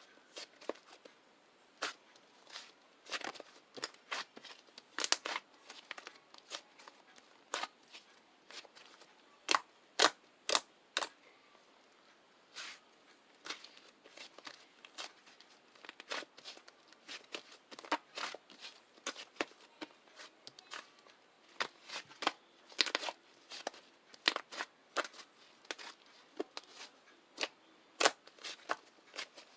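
Clay slime being squeezed and pressed by hand, making irregular sharp clicks and crackling pops, bunched close together at times.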